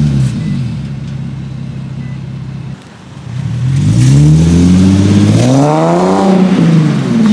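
Infiniti G-series sedan's V6 engine: a sharp blip at the start settles to a steady idle, then about three seconds in the revs climb smoothly for a couple of seconds and fall away again near the end.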